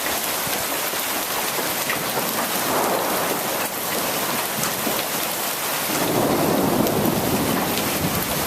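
Moderately heavy rain mixed with pea-sized hail pattering steadily, with a few sharp ticks of hailstones. A low rumble of thunder swells briefly about 3 seconds in, and again more strongly about 6 seconds in.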